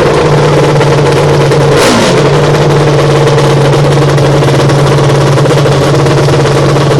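Dirt bike engine running at a steady pitch, with a short burst of noise and a falling tone about two seconds in.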